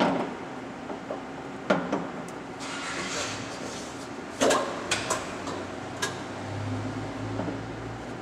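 Mazak 14x40 engine lathe running with a low hum, while its speed-change levers are shifted with several sharp metal clunks as it goes from 198 to 120 RPM. The hum grows steadier and stronger near the end.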